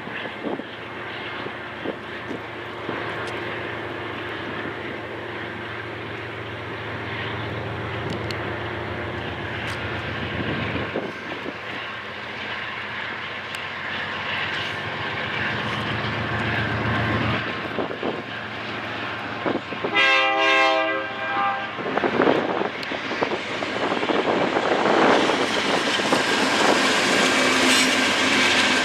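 BNSF freight train with diesel locomotives running, a steady rumble with engine hum. About two-thirds of the way through comes one short locomotive horn blast. The rumble grows louder toward the end as the train draws closer.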